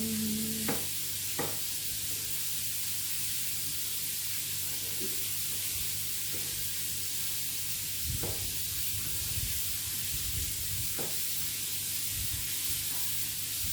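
Meat patties frying in a pan, a steady sizzling hiss, with a few short clicks scattered through it.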